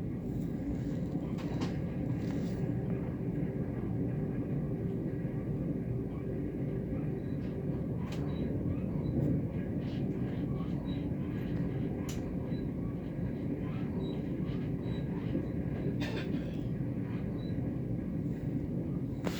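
Passenger train running along the track, heard from inside the carriage: a steady low rumble with a few short clicks and knocks.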